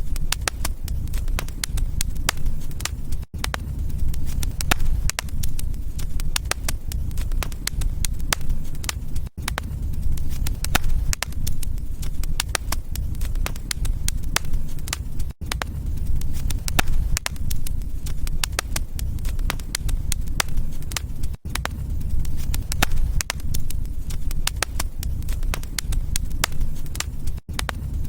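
Wood fire in a fireplace crackling, with many sharp pops and snaps over a steady low rumble. The sound drops out for an instant about every six seconds.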